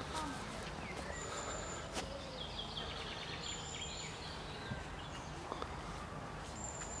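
Birds singing by a reedy riverbank: a short, high, thin note repeated three times, and a quick run of chirps about two to four seconds in, over steady low outdoor background noise.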